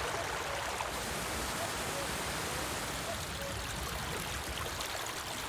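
A stream rushing steadily, with a common cuckoo calling faintly a few times.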